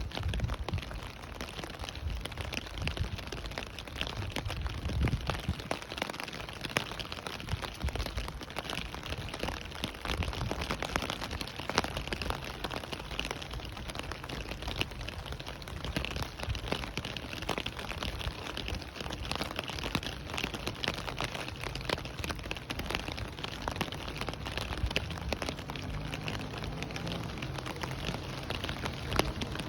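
Steady rain falling and pattering on surfaces, an even hiss dotted with many small sharp drop ticks.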